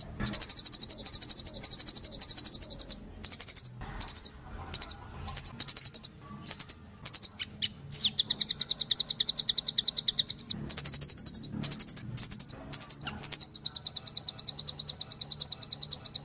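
Blue nuthatch (rambatan doraemon) calling in fast, high, rattling trills of rapidly repeated notes: long trills of a few seconds each, broken in the middle by a string of short bursts.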